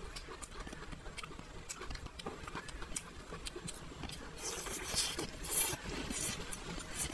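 Close-miked chewing and wet mouth clicks, then a juicy bite into a pan-fried chicken leg roll about five seconds in, the loudest sound, followed by more chewing.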